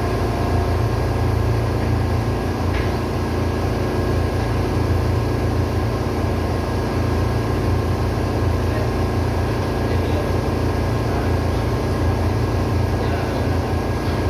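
A ship's auxiliary diesel engine running steadily, a constant deep engine-room drone with no change in speed.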